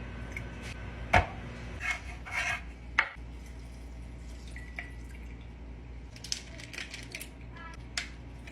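Kitchen dishes and utensils clinking and knocking on a counter, with a few sharp knocks about a second in and at about three seconds, and lighter clinks later.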